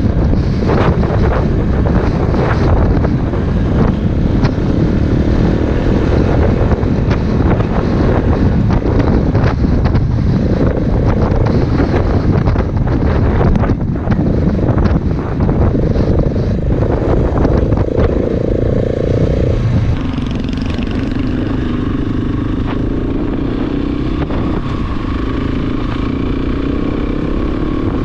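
Big single-cylinder dual-sport motorcycle engine running under way, over heavy wind rumble on the microphone and scattered short knocks. Its pitch climbs through the middle, then about twenty seconds in it drops to a lower, quieter note.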